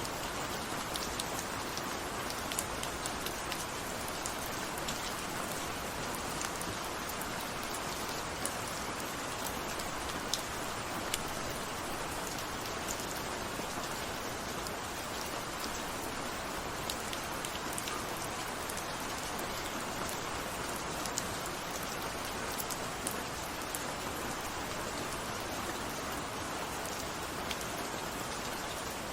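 Steady rain falling, an even hiss with scattered individual drops ticking sharply through it.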